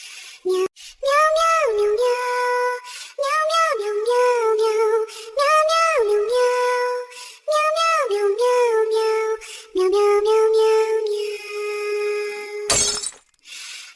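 A high, child-like singing voice, synthetic in character, sings short repeated phrases, each swooping up and down before settling on a held note. Near the end a brief noisy crash cuts in.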